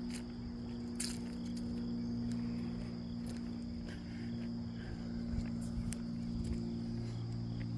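Insects trilling steadily in the marsh over a low steady hum, with a few scattered light clicks.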